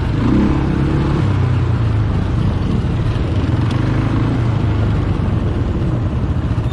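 ATV engine running at a fairly even speed while being ridden, with a steady rush of noise over it.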